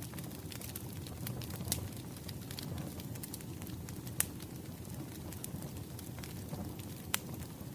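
Wood fire crackling: a steady low rumble of burning logs with scattered sharp pops, the loudest about two, four and seven seconds in.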